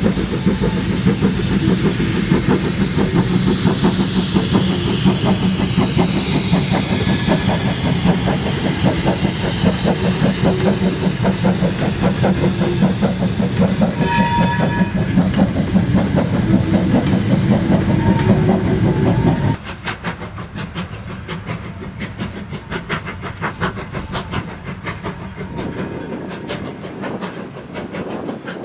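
Steam-hauled train running on the rails, with a rapid steady clatter under a constant hiss of steam. About two-thirds through the sound drops suddenly to a quieter rail scene where the clatter carries on more faintly.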